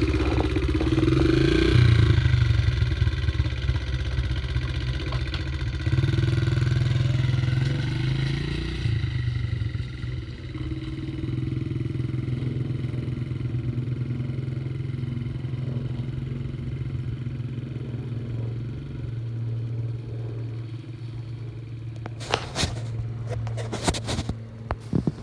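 Dirt bike engine running and revving, swelling louder twice in the first several seconds, then running steadier and lower. A few sharp clicks near the end.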